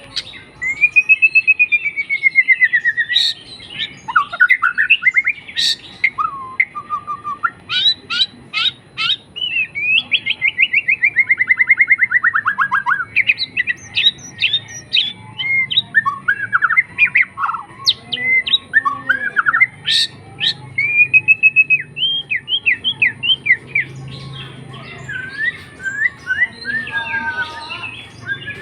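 A tame pet songbird singing a long, varied song without pause: whistled phrases that glide up and down, fast trills and rapid chirps, mixed with harsher squawk-like notes.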